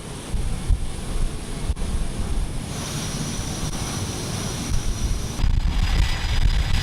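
Jet aircraft engine whine over a steady low wind rumble on the microphone. A thin high whine comes in about three seconds in, and about five and a half seconds in the noise grows louder and more whining tones join it.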